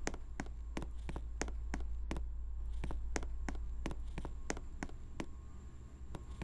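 Ceiling fan running with a steady low motor hum and a regular click about three times a second.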